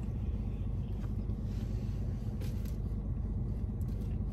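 Steady low rumble of a car's engine running, heard from inside the cabin, with a few faint small clicks about two and a half seconds in.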